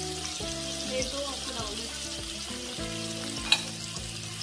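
Chapli kebabs and tomato slices sizzling steadily in hot oil in a frying pan, with one sharp click about three and a half seconds in. Background music with held notes plays over it.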